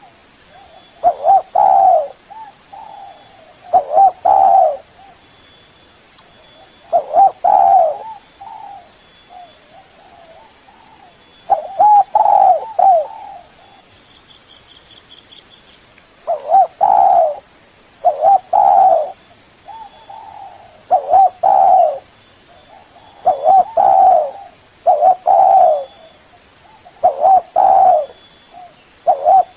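Spotted dove (tekukur) cooing in repeated phrases of a few low, rolling notes, about a dozen phrases with short pauses between them. This is a lure call used to draw in other spotted doves.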